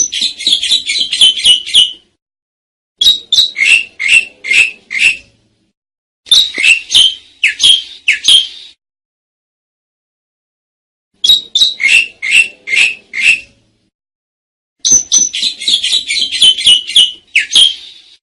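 Asian pied starling (jalak suren) song: five phrases of quick repeated chattering notes, each about two seconds long, separated by silent gaps of one to three seconds.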